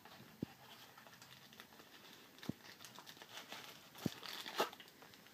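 Faint handling noises of a USB 3.0 cable and its plastic packaging being unpacked: four light taps spread over the stretch, with soft rustling between them.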